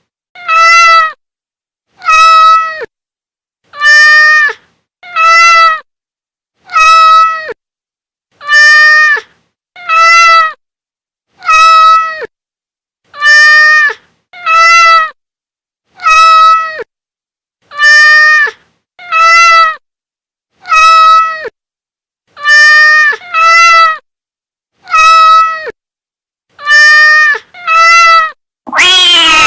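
A Persian cat meowing over and over, short, even calls about one every second and a half, each falling in pitch at the end. Near the end a longer, wavering yowl begins.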